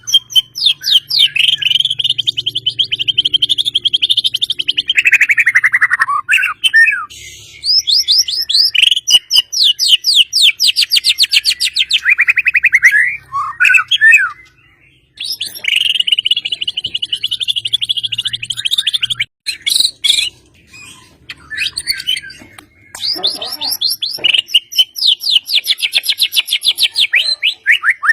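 Songbird singing long, rapid trills of fast-repeated notes, each run lasting several seconds and dipping in pitch at its end, with short breaks and brief varied phrases between. These are the machine-gun 'tembakan' trills that keepers use as training song for murai batu.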